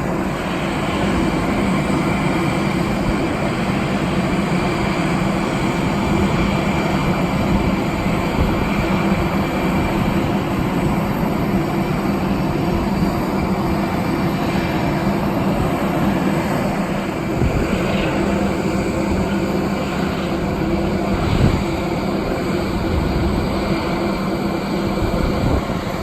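Jet airliner engines running, a steady loud rumble with a faint high whine that fades about ten seconds in.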